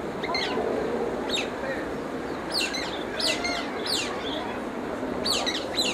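Small birds chirping: a series of quick, high chirps that sweep downward in pitch, coming in little clusters, over a steady background murmur.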